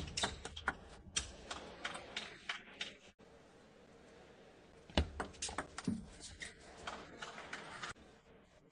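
Table tennis rallies: the celluloid ball clicks sharply off the rackets and the table in quick, uneven succession. The clicks come in two runs, one in the first three seconds and one from about five seconds in, with a quiet gap between them.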